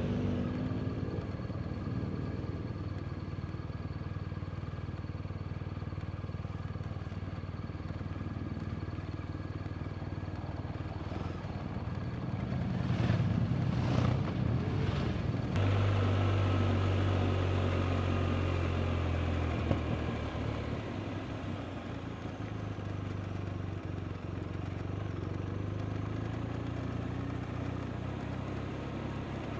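BMW R 1250 RT's 1254 cc boxer twin running under way on the motorcycle, with wind and road noise. About halfway through the engine note steps up suddenly to a stronger low drone for several seconds, then eases back to a steady cruise.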